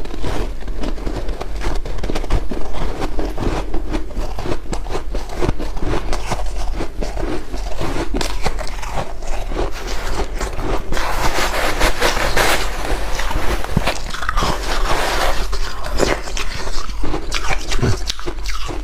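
White ice being bitten and chewed close to the microphone: dense crisp crunching and crackling throughout, with louder gritty stretches about two-thirds of the way through.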